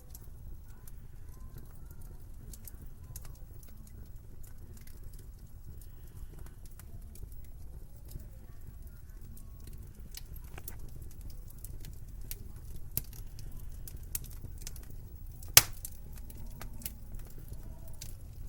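Wood fire crackling in a fireplace: scattered small pops and crackles over a low steady rumble, with one sharp, much louder pop near the end.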